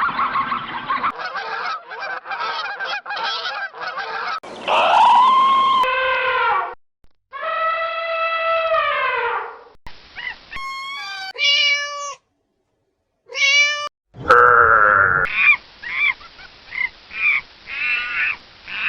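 A string of different animal and bird calls, edited one after another with sudden silent gaps between them: long arching calls, runs of short repeated calls and bursts of high chirps.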